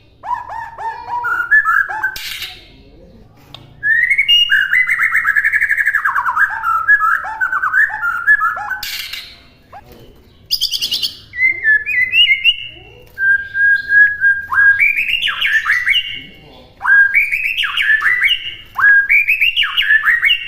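White-rumped shama (murai batu) singing in phrases of loud, varied whistles and quick down-slurred notes, broken by short pauses of about a second.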